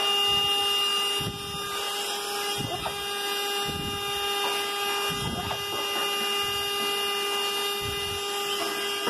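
Vacuum cleaner running with a steady whine, with a parrot's short rising calls over it now and then.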